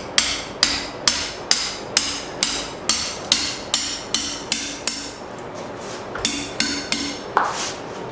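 Hand hammer striking 1/2-inch round steel stock on an anvil, a steady run of ringing blows about two to three a second, pausing briefly past the middle before a second run: straightening out a bend in the bar.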